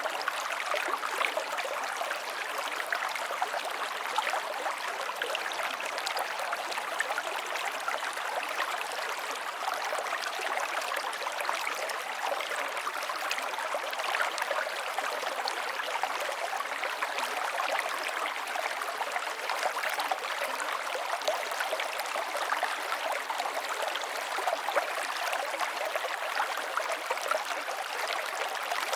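A flowing river or stream running over rocks: a steady rushing and splashing with fine gurgling detail.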